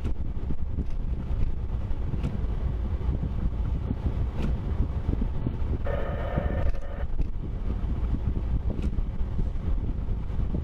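Steady low rumble of a vehicle being driven, with wind buffeting the microphone. A short pitched tone, about a second long, sounds about six seconds in.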